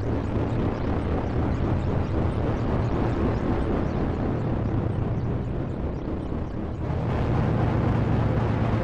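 DIY modular synthesizer patch making noise: a sample-and-hold circuit stepping the pitch of a single triangle-wave oscillator, the filter cutoff and a wavefolder, run through a triple delay into feedback. A dense, rumbling texture over a low hum, turning louder and steadier with a held low drone about seven seconds in.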